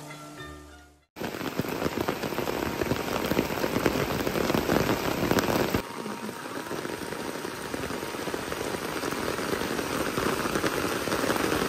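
Heavy rain falling steadily, a dense even hiss of drops on the ground and foliage, starting a little after a second in as plucked-string music fades out.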